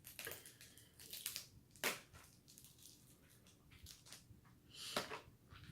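Snow crab leg shell cracking and crunching: a few separate sharp cracks, the loudest about two seconds in and another about five seconds in.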